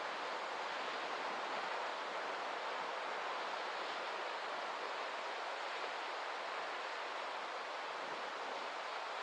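Steady, even rush of water, without rising and falling swells.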